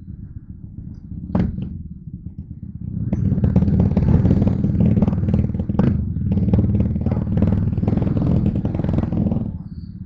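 Motorcycle engine running, with a short sharp knock about a second and a half in. From about three seconds in the sound grows louder and rushes more, then drops back just before the end.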